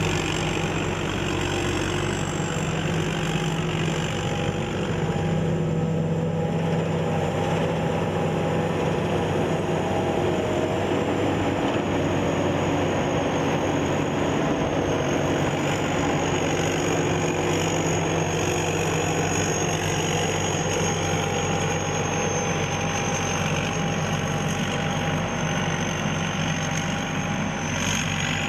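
Combine harvester running steadily: an even engine and machinery drone with a thin, constant high-pitched whine above it.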